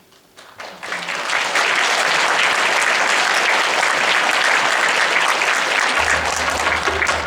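Audience applause breaking out after a quiet moment, swelling to full strength within about a second and holding steady. A low pulsing sound joins underneath near the end.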